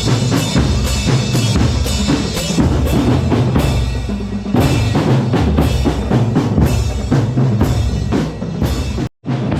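Drum corps percussion playing a fast, dense rhythm with bass drums and snare drums over sustained low bass notes. The sound cuts out for a split second near the end.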